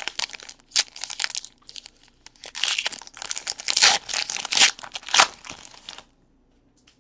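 A trading-card pack wrapper crinkling and tearing as it is opened, in a run of irregular, scratchy rustles that stops about six seconds in.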